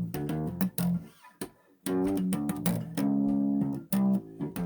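Bass guitar played solo: a run of plucked notes, a short break about a second in, then more notes including one longer held note.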